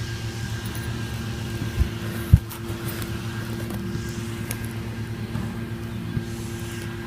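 Steady low mechanical hum, with two dull thumps about two seconds in.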